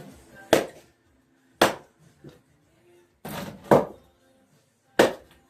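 Maul splitting kindling, four sharp chopping blows on the wood spread over about five seconds, with a brief scraping rustle just before the third.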